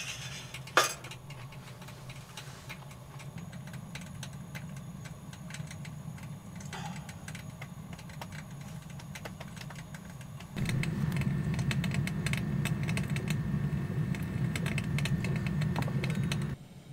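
Rain pattering on tent fabric over a steady low hum, with one sharp click about a second in. About ten seconds in, the sound gets louder and a steady high whine joins, then it cuts off suddenly near the end.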